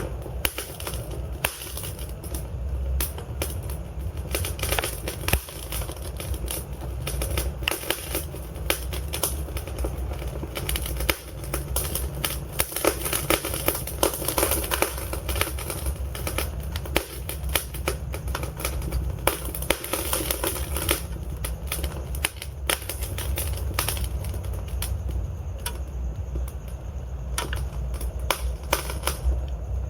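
Wood fire burning in a fireplace: dense, irregular crackling and popping of the logs over a steady low rumble of the flames.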